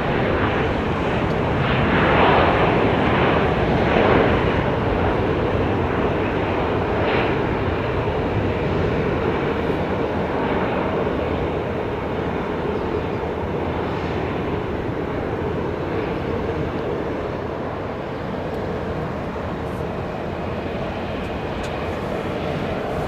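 Jet airliner engines: a steady rush with a hum, loudest in the first few seconds and then slowly fading as the aircraft moves away.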